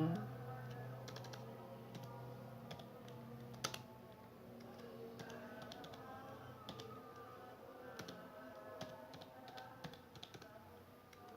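Computer keyboard typing: irregular keystroke clicks, scattered and unhurried, over soft background music with held tones.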